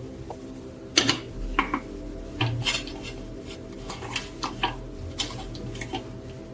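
Small metal parts clinking and knocking against each other and a hard surface as they are handled: a dozen or so light, irregular metallic taps, over a faint steady hum.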